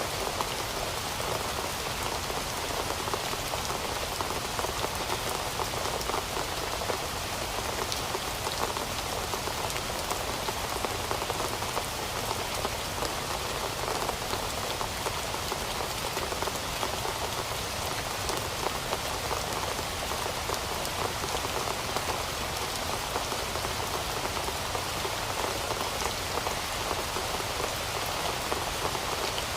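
Steady rain falling, a dense even hiss of drops that keeps up without a break.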